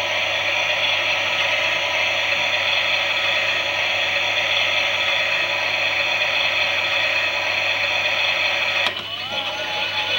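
Klein toy Miele washing machine running with a steady mechanical whirr. Near the end a click is followed by the start of a warbling electronic tone.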